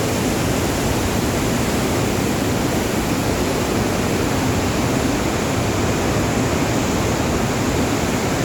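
Water pouring through the open gates of a dam, a loud, steady rush of falling water with no let-up.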